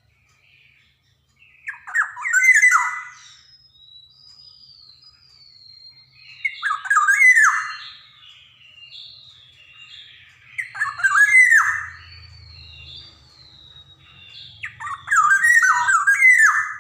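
Black-naped oriole (kepodang emas) giving four harsh, squawking calls about four seconds apart, with thin falling whistles in between.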